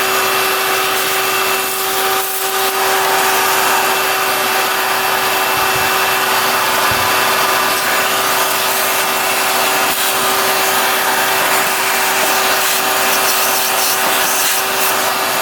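Shop vacuum running steadily with a constant motor whine, sucking mouse-nest debris out of a motorcycle's air box.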